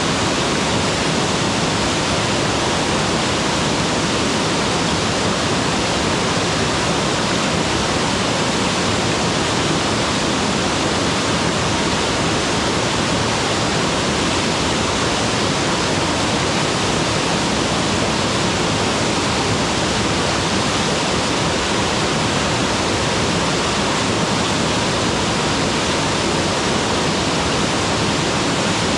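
Mountain waterfall: a steady, loud rush of falling water.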